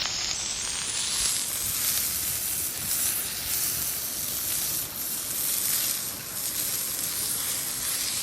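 Beef steak sizzling steadily in a cast-iron skillet over a campfire, searing in the hot fat.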